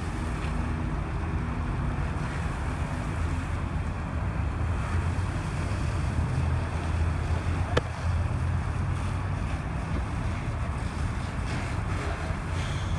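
Wind buffeting the microphone over a steady low rumble, with one sharp click about eight seconds in.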